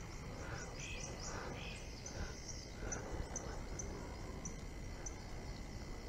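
Birds singing: a run of short, high chirps repeated about twice a second, with a few lower calls among them, over a steady low background noise.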